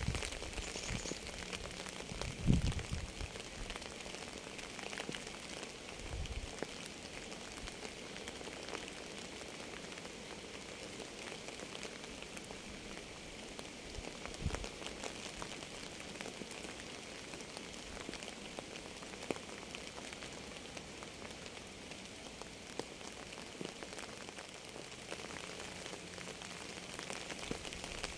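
Steady rain falling on a surface, with many separate drop hits. There is a brief low thud about two and a half seconds in, and softer ones near six and fourteen seconds.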